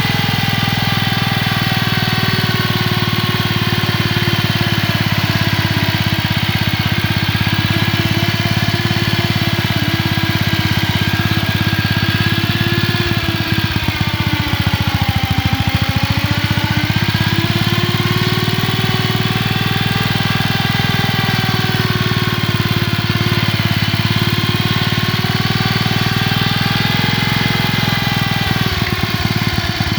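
1947 Gibson Model D tractor engine running steadily as the tractor is driven; the engine slows briefly about halfway through, then picks back up.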